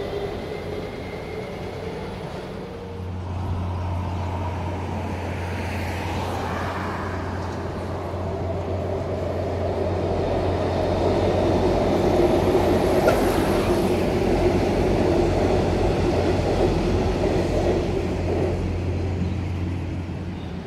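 Comeng electric train running along an elevated concrete viaduct, growing louder to its peak about halfway through and then fading. A steady low hum runs beneath it from about three seconds in.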